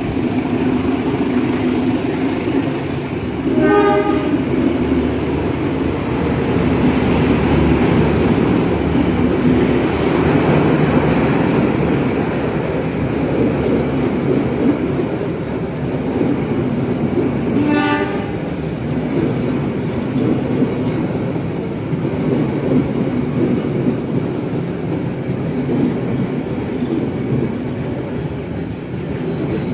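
Train departing, its running rumble steady throughout, with two short horn blasts, one about four seconds in and one about eighteen seconds in. A thin high squeal comes and goes in the second half.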